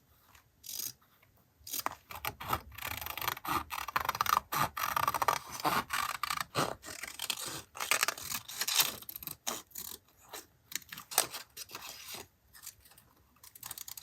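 Paper and stationery being handled and rubbed for collage: a dense run of rustling, scraping and small clicks that starts about two seconds in and eases off briefly near the end.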